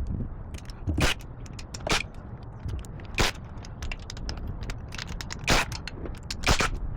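Metal hand tools clinking and scraping on engine hardware as a socket is worked onto the intake manifold bolts of a Kubota V2203 diesel, with a handful of sharper clanks scattered among lighter ticks. The engine is not running.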